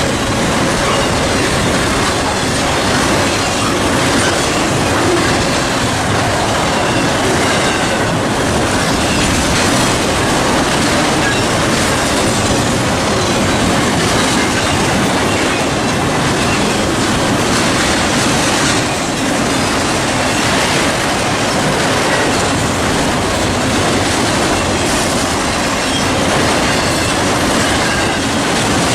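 Norfolk Southern freight train's cars rolling past, a loud, steady rumble and clatter of steel wheels on the rails.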